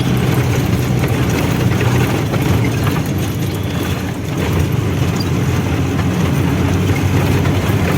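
Diesel truck engine running steadily as the unloaded truck is driven along the road.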